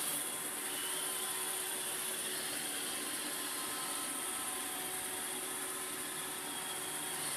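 iRobot Roomba 650 robot vacuum running a spot clean: a steady whir from its motors and brushes with a high hiss on top.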